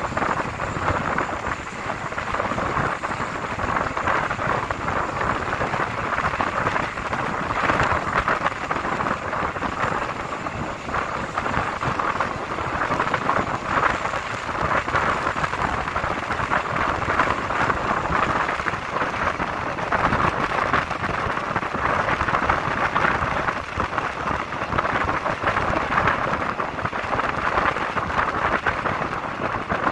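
Steady rush of wind and running noise from a moving passenger train, heard from an open window along the carriage side, with the wheels rumbling on the rails beneath.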